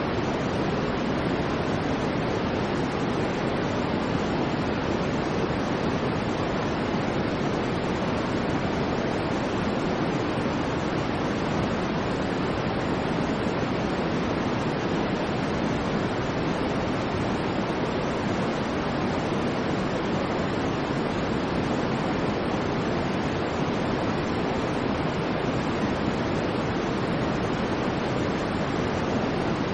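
Continuous white noise, a steady rushing hiss that never changes in level, fuller in the low and middle range than in the highs.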